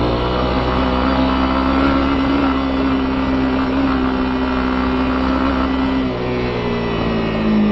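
Honda CB250R's single-cylinder four-stroke engine running under way. Its pitch rises within the first second, holds steady, then drops about six seconds in as the throttle eases, before picking up again near the end. Tyre and gravel noise from the dirt road runs underneath.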